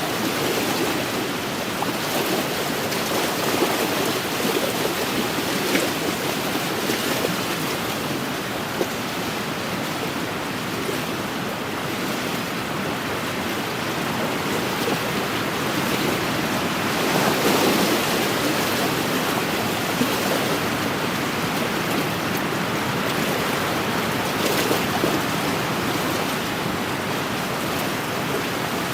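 Small wind-driven waves lapping on an inland lakeshore, a steady rush of water and wind that swells briefly about seventeen seconds in.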